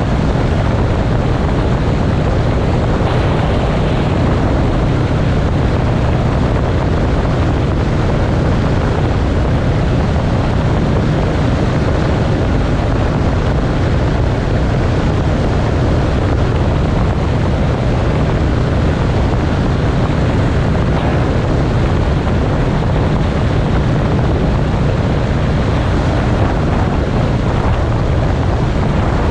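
Motorcycle under way at a steady speed: the engine runs evenly under a constant low rumble of wind buffeting the microphone.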